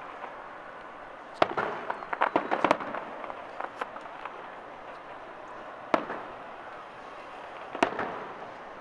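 Aerial fireworks shells bursting: a sharp bang about one and a half seconds in, followed by a quick run of crackling pops, then single bangs at about six seconds and again near the end.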